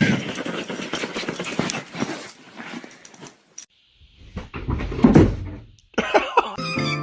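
A dog's noises, with a louder burst about five seconds in; music with a steady beat starts near the end.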